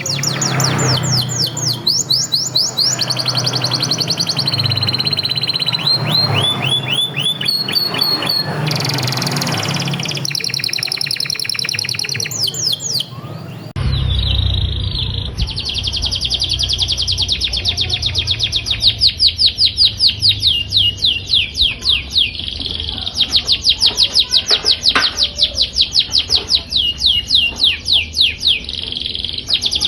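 Domestic canary singing: long rolls of fast trills, each a quick falling note repeated many times over, changing from one tour to the next. About halfway through a second canary's song takes over, with a low hum under it.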